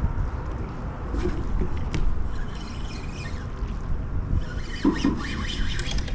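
Steady outdoor noise of wind and water around a kayak, with a low rumble and a few faint ticks and squeaks.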